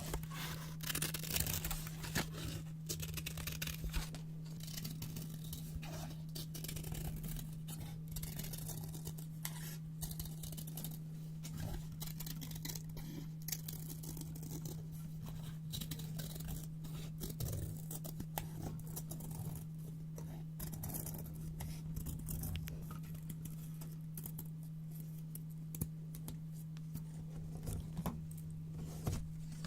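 Scissors cutting brown paper up close: a continuous run of crisp snips and paper rustling. A steady low hum sits underneath.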